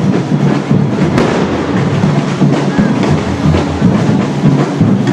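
Drums playing a marching beat over busy crowd noise, with one sharp bang about a second in.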